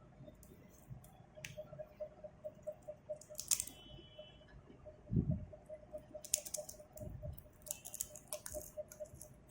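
Parrot crunching and nibbling a cracker: irregular crisp crackles and clicks, with a dull thump about five seconds in.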